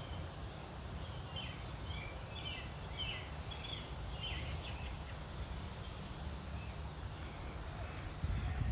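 Songbirds chirping in short, quick calls over a steady low outdoor rumble. The chirps fade out about halfway through, and the rumble gets louder near the end.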